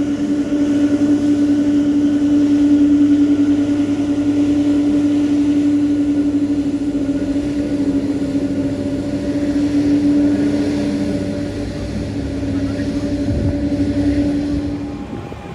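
Jet airliner engines running with a steady droning hum, which cuts off suddenly near the end.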